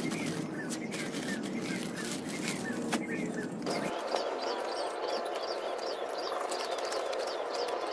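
A bird chirping over and over, about three short calls a second, with a few soft handling clicks in the first seconds.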